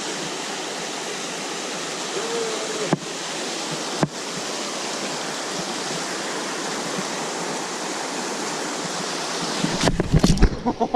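Steady rushing of flowing water from a rainforest river or creek, with two brief clicks about three and four seconds in. Near the end a low rumble comes in and voices return.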